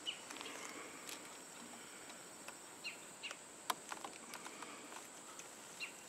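Quiet outdoor background with a few short, falling bird chirps about three seconds in and again near the end, a steady faint high tone, and a couple of sharp faint clicks.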